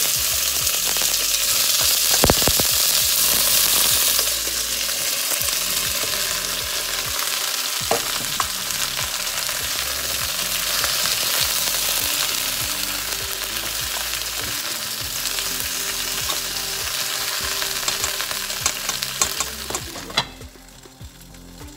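Cut okra sizzling loudly in hot olive oil in a stainless steel pot as it goes in and is stirred with a metal spoon, with a few sharp clinks of the spoon against the pot. The sizzle drops away near the end as a glass lid is put on.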